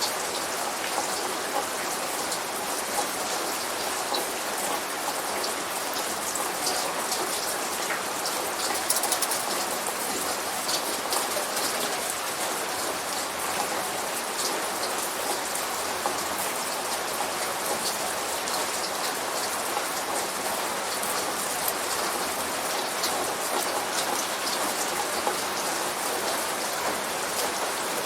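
Steady light rain falling, with many small drops ticking on a surface; no thunder is heard.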